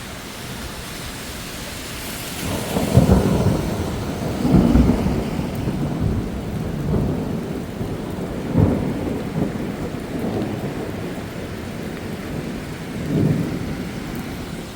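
Rolling thunder rumbling overhead in a heavy thunderstorm, swelling to loud peaks about three seconds in, again near four and a half and eight and a half seconds, and once more near the end, over the steady hiss of rain.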